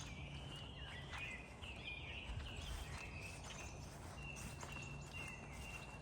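Wild birds singing, a run of short chirps and whistled notes with one long held whistle near the end, over a low steady rumble and faint footsteps.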